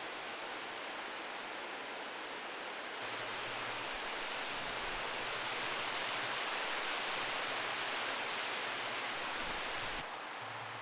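Heavy rain pouring down as a steady hiss. It grows louder about three seconds in and drops back suddenly near the end.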